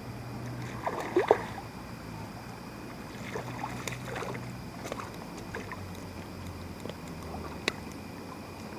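Water splashing and sloshing in shallow river water, with the loudest splashes about a second in, scattered smaller splashes after, and one sharp click near the end.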